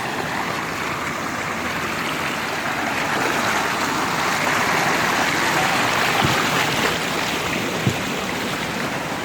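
Flash-flood water rushing down a desert canyon creek: a steady rushing that swells a little midway, with two short knocks later on.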